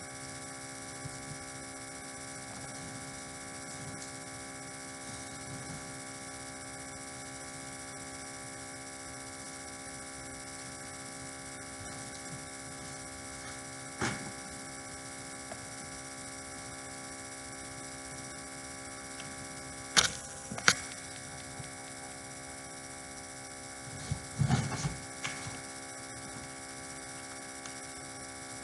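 Steady electrical mains hum, a buzz with many overtones, broken by a few sharp knocks: one about 14 seconds in, two loud ones close together about 20 seconds in, and a short cluster a few seconds later.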